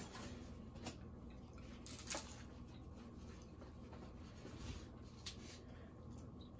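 Quiet eating sounds: faint chewing and a few soft clicks and rustles of food being handled, over low room tone.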